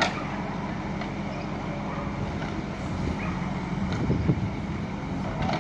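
Diesel engine of a JCB 3DX backhoe loader (Kirloskar engine) running steadily, with a few short knocks about four seconds in.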